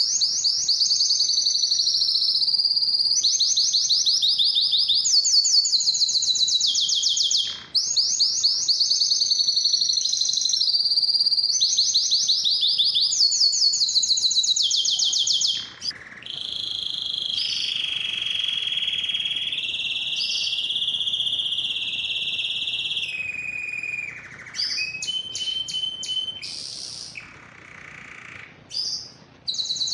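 Domestic canary singing: fast, high trills in phrases of a second or two, then from about halfway a long, lower, steady rolling trill, ending in shorter broken phrases with gaps between them.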